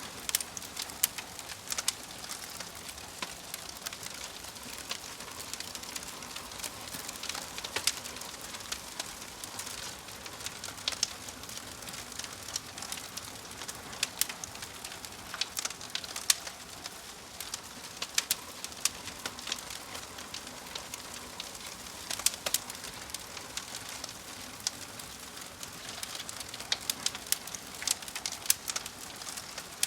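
Wood fire crackling: a steady hiss broken by frequent, irregular sharp pops and snaps.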